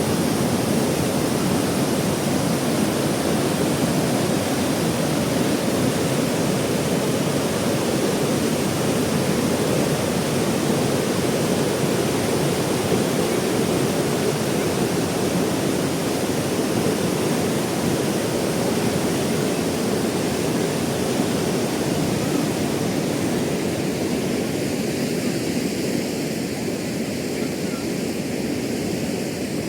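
Zayandeh River rushing under the bridge: a steady, loud rush of water, a little quieter and duller in the last few seconds.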